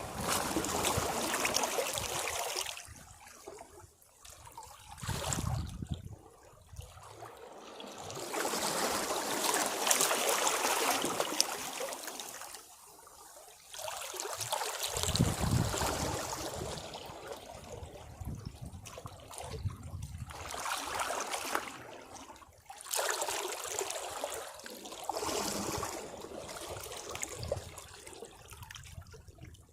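Sea waves washing against rocks, in irregular surges a few seconds apart, each swelling and falling away.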